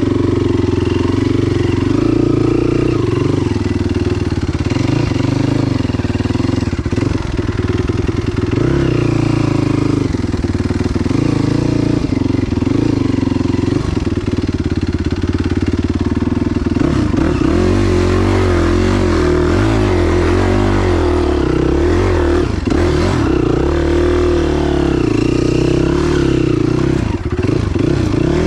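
Enduro motorcycle engine running under throttle, steady at first and rising and falling in pitch more often through the second half.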